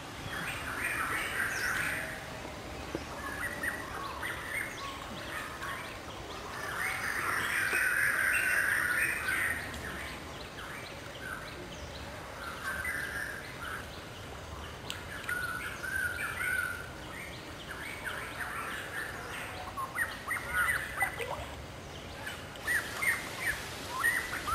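Wild birds chirping and calling in repeated short bursts, the loudest run about eight seconds in.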